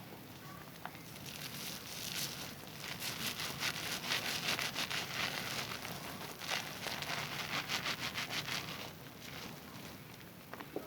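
A wet bar of Zest soap being rubbed between hands to work up a lather, in quick rhythmic strokes. The strokes build up a second or two in and ease off near the end.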